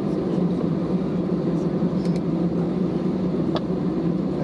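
Steady low rumble inside the cabin of an Airbus A320neo taxiing after landing, with a faint click about three and a half seconds in.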